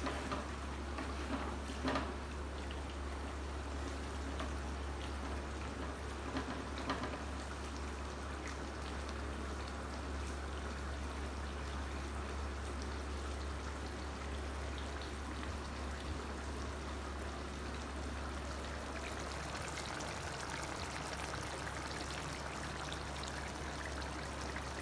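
Chicken gravy sizzling and bubbling as it cooks down uncovered in a clay pot, reducing toward a dry finish: a steady sizzle with a couple of faint clicks about two and seven seconds in, over a steady low hum.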